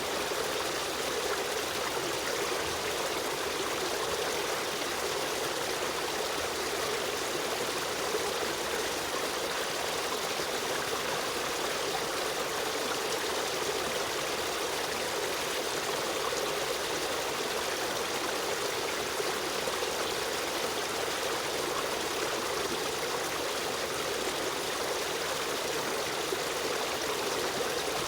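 Running stream: a steady, even rush of flowing water.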